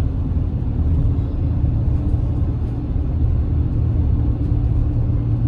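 Steady low rumble of a car driving, with a faint constant hum over it.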